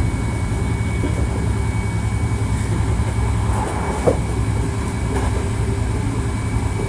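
Hankyu 1300 series electric train running, heard from inside the car: a steady low rumble of wheels on rail with a faint steady high tone above it, and a short sharp click about four seconds in.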